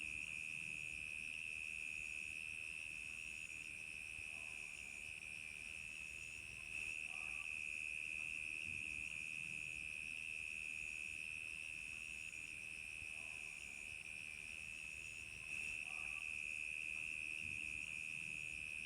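Crickets chirping in a dense, steady chorus, with a higher pulsing trill repeating about once a second.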